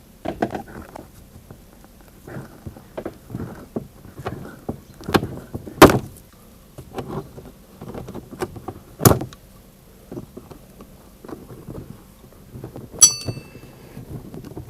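Hand tools working on the last bolt under a car's plastic wheel-arch liner: scattered clicks and knocks, two sharp loud knocks about six and nine seconds in, and a ringing metallic clink near the end.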